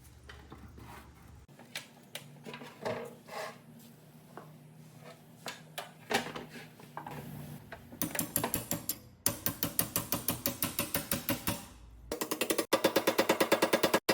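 Background music, then about eight seconds in a rapid, even hammering rattle of about seven strokes a second starts. It breaks off briefly and comes back louder near the end.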